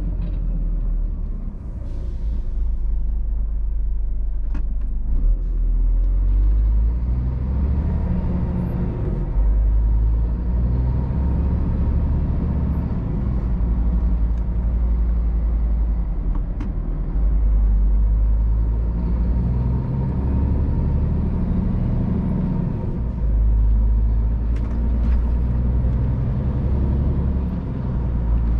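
Scania R500 truck's diesel engine running, a deep rumble whose pitch rises and falls with engine speed, with a few brief clicks over it.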